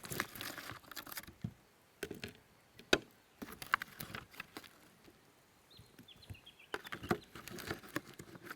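Scattered clicks, scrapes and rustles of food being dished up from a camp oven with utensils. There is a busy cluster at the start and another about seven seconds in, with single sharp clicks between.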